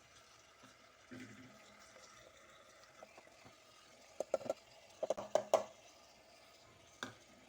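Spoon knocking and scraping as ground spice paste goes into a clay cooking pot: quick clusters of clicks and knocks about four and five seconds in, and one more knock near the end.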